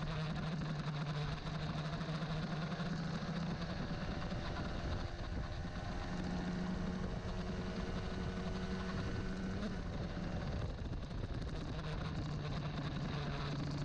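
Old carburetted Honda CBR150R's single-cylinder four-stroke engine running on a test run after carburettor tuning. Its pitch holds steady, rises slightly about six seconds in and drops back about ten seconds in.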